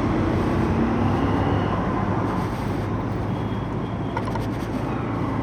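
Steady rumble of a motorcycle on the move, engine and road and wind noise blended together.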